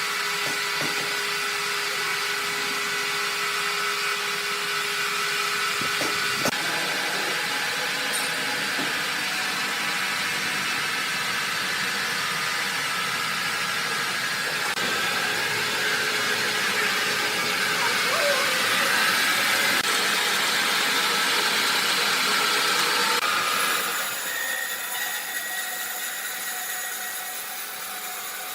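Sawmill saw running and cutting a red oak log, a steady loud machine noise with a constant whine. It grows louder toward the middle and drops off suddenly near the end as the cut finishes.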